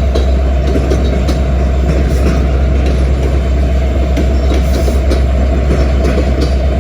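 Freight train rolling past: a steady heavy rumble of wheels on rail with scattered light clicks.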